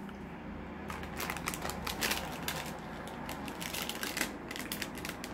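A person chewing a soft-baked chocolate-chip biscuit close to the microphone. From about a second in there is a rapid, irregular run of wet mouth clicks and smacks.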